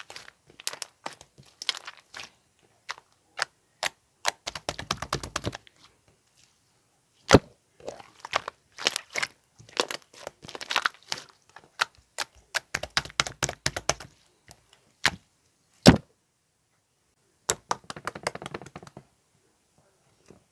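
Slime being pressed and stretched by hand, giving off bursts of sharp crackling clicks and pops from trapped air, in clusters with short pauses. Two single loud snaps stand out, about seven and sixteen seconds in.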